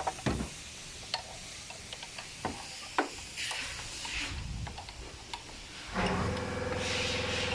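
Scattered light metallic clicks and knocks of hand tools working on engine parts, then a steady machine hum starts suddenly about six seconds in.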